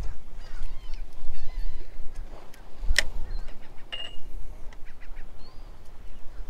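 Faint bird calls over a steady low rumble, with one sharp click about three seconds in.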